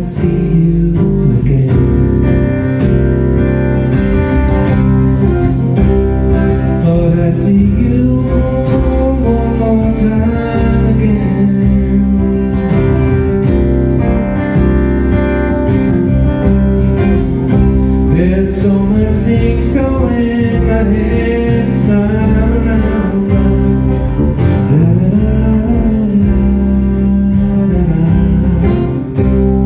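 Live instrumental passage on acoustic guitar and bass guitar, with the bass playing a sliding melodic line over the guitar's accompaniment.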